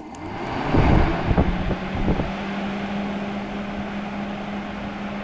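Electric radiator cooling fan switched on through its other terminal: a click, then the fan spins up with a rush of air, with a few thumps of air buffeting in the first two seconds, and settles into a steady hum. It is running at its faster speed, which seems better.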